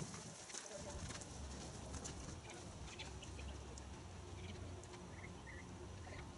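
Faint outdoor birds calling, with a few short chirps a little past the middle, over a steady low hum.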